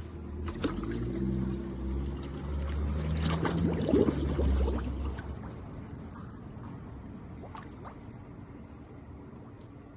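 Cordless robotic pool cleaner in the water, with a low motor hum and water gurgling and bubbling. It is loudest in the first five seconds, then fades.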